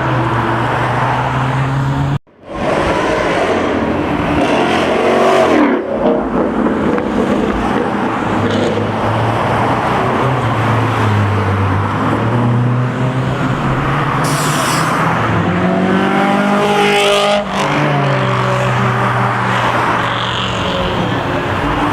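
Loud race car engines revving and driving past, their pitch rising and falling over and over. The sound drops out briefly about two seconds in.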